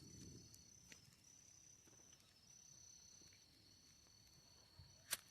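Near silence with crickets trilling steadily at two high pitches, a few faint clicks, and one sharp crack about five seconds in.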